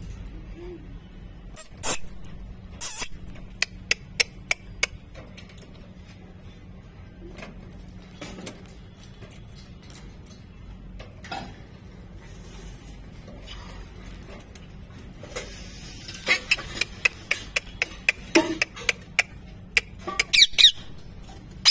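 Pet parrot making sharp clicks and short squeaks. They come in two bursts: a scattered run of clicks a couple of seconds in, and a denser run in the last few seconds that ends with a few brief, high chirps.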